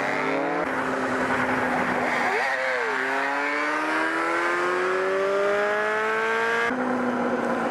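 Sport motorcycle engine accelerating with wind rushing past: the revs dip about two and a half seconds in, then the pitch climbs steadily under throttle until it cuts off sharply near the end.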